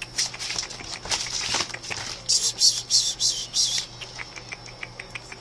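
Five-week-old Pomeranian puppies play-fighting: repeated scuffling bursts with small, high squeaky yips and scratchy clicks, loudest near the middle.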